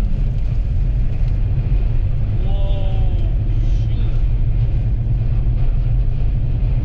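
Steady, heavy low rumble of a vehicle driving on a highway in a snow windstorm: wind and road noise mixed with the engine. A short voice-like sound comes about halfway through.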